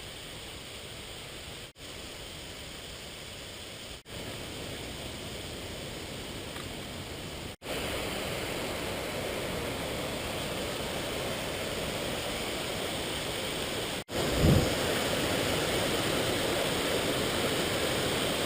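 Rushing water from a river and waterfalls in a rocky gorge: a steady hiss that cuts off abruptly several times and comes back louder after most of the cuts. There is a brief low thump about two-thirds of the way through.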